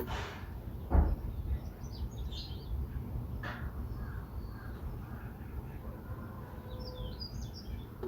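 Wild birds calling: two harsh, rasping calls and several short, high chirps of small birds over a steady low background rumble. A single sharp thump about a second in is the loudest sound.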